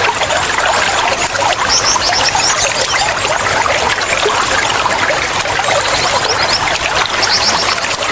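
Water flowing and trickling steadily, like a small stream. Short flurries of high chirps come through it twice, about two seconds in and near the end.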